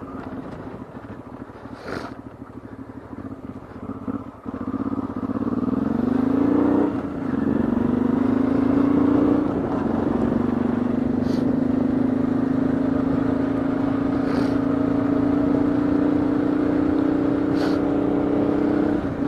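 Honda Transalp 600 V-twin engine, quiet at first, then accelerating through the gears: the note rises, drops at a gear change about seven seconds in, rises again, then settles into a steady cruise.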